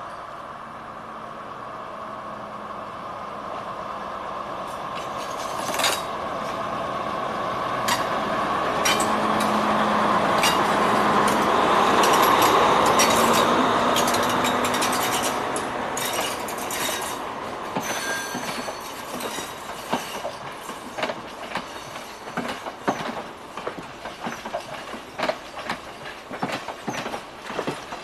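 Diesel multiple-unit train running on the line: its sound swells to a peak near the middle and then eases off. Wheels clacking over rail joints, fast and irregular, fill the second half.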